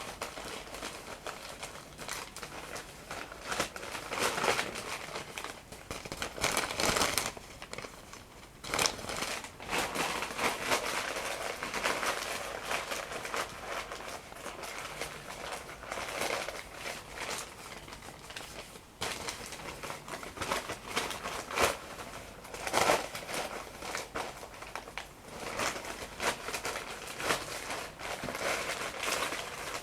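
Paper crumpled and handled close to the microphone for ASMR: a continuous irregular crinkling and crackling, with louder crackles now and then.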